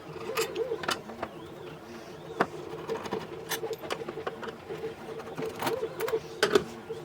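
Scattered sharp clicks and clinks of small metal parts and tools being handled, over a repeating low cooing call.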